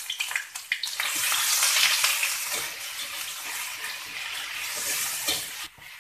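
Pounded chilli-and-spice paste frying in hot oil in a metal wok, sizzling steadily, with a slotted spatula scraping and stirring it across the pan. The sizzle fades near the end.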